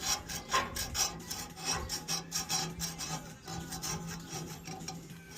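Hand scraper rasping old paint off a tractor's metal hydraulic pipe in quick, uneven repeated strokes.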